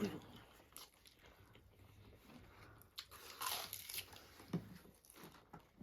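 Faint eating sounds close to the microphone: small mouth clicks and chewing, with a louder crunchy bite about three seconds in.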